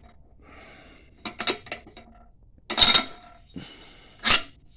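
Metal parts clinking and knocking together as the tire changer's threaded rod, electrical conduit, washer and nut are handled: a few short clinks about a second and a half in, a louder ringing clink near three seconds, and one more near the end.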